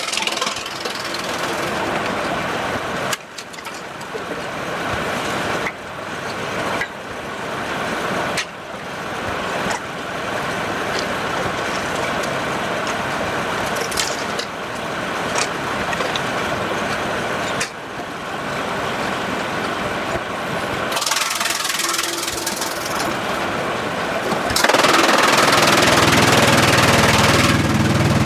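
Sawmill machinery running loudly, with abrupt changes in the noise several times as the sound shifts from one machine to another; the loudest, fullest stretch comes near the end.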